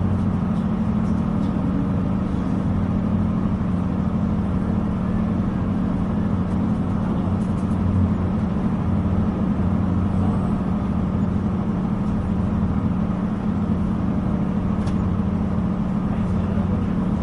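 Steady low drone and rumble inside a Northern Ireland Railways diesel multiple unit carriage.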